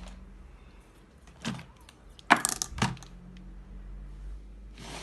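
Small toys being handled and set down: a brief rustle, then a sharp clack about two seconds in followed by a few lighter clicks.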